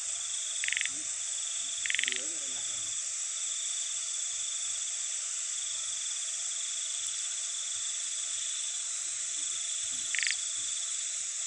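Night chorus of insects, a steady high-pitched trilling, with a frog giving three short pulsed calls: two close together near the start and one near the end.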